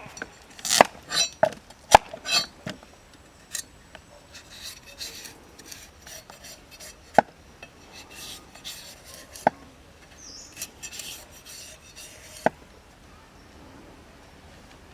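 Irregular sharp clicks and knocks with light scraping, thickest in the first few seconds and then sparser; a few of the knocks ring briefly.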